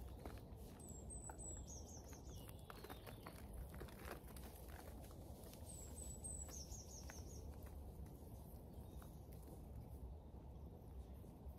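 A small songbird sings a short, high phrase twice, about a second in and again about six seconds in: a couple of very high notes, then a quick run of four slightly lower ones. Under it are faint crackles and rustles of a snowdrop clump being pulled apart by hand, over a low, steady background rumble.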